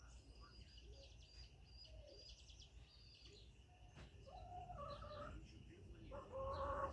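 Chickens calling: light high chirps at first, then two louder drawn-out hen calls, one about four and a half seconds in and another near the end, over a faint steady high hum.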